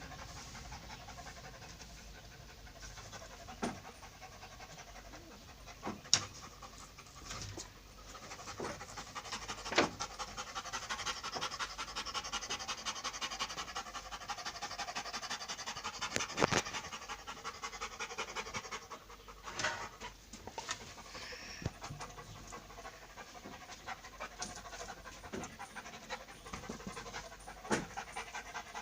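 A pet panting steadily close to the microphone, with a few sharp knocks, the loudest about six and ten seconds in.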